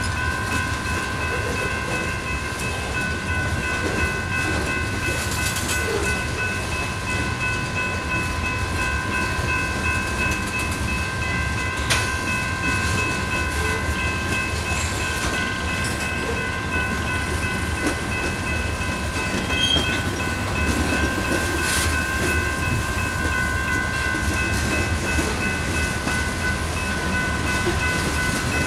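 Freight cars (tank cars and covered hoppers) rolling past on the rails, a steady low rumble of wheels on track with a steady high-pitched ringing tone over it. A couple of sharp clanks are heard, about twelve seconds in and again later.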